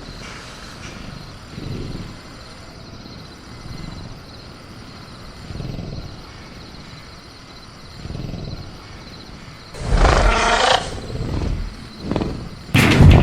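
Film-style dinosaur creature sound effect, a caged velociraptor: soft low growls about every two seconds, then a loud roaring call about ten seconds in, and another loud sudden sound near the end. Steady crickets chirp underneath.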